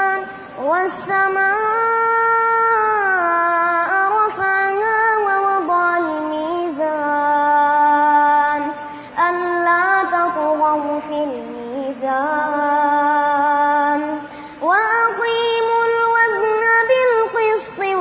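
Melodic Quran recitation (tilawa) by a single high voice, drawing out long held notes with gliding ornaments, with short breath pauses about nine and fourteen seconds in.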